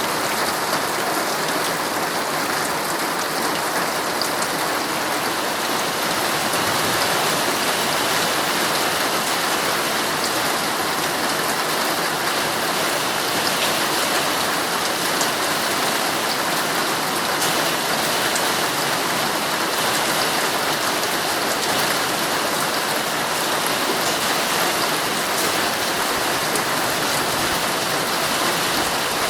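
Heavy, steady rain drumming on a tent's fabric, a dense even hiss flecked with individual drop taps.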